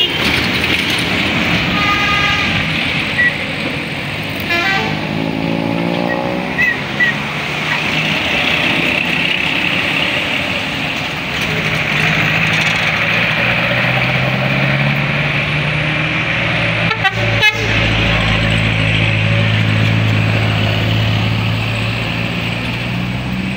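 Passing buses and trucks sounding their horns: a short horn tone early on, a falling horn tone about five seconds in, and a quick burst of toots about seventeen seconds in, over the steady running of a heavy vehicle's engine that grows louder in the second half.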